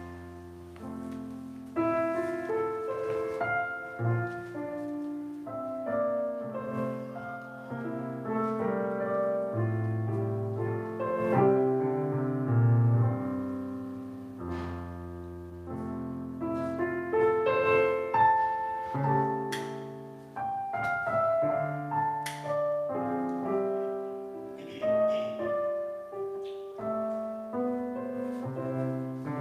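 Solo piano playing a church prelude, a run of held, overlapping notes and chords that ring and die away.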